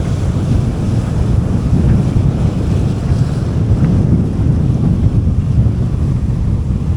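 Strong wind buffeting the microphone: a steady, loud low rumble with no let-up.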